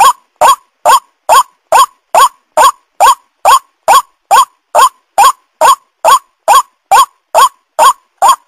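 White-breasted waterhen (ruak-ruak) lure call: a short rising note repeated at a strictly even pace, about two and a half times a second.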